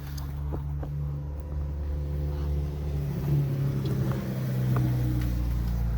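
A motor vehicle's engine running with a steady low rumble that grows louder toward the end, with a few faint clicks over it.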